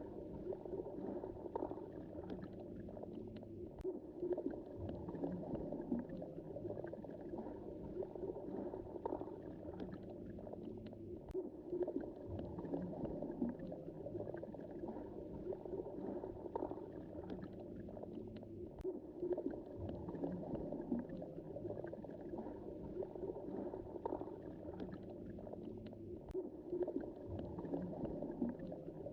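Underwater ambience in the Mediterranean Sea: a steady, muffled churning and gurgling of water moved by waves, with a few faint sharp clicks.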